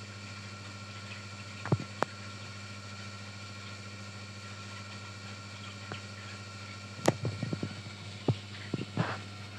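A steady hum with a few sharp, short clicks about two seconds in, then a cluster of quick clicks and taps over the last few seconds.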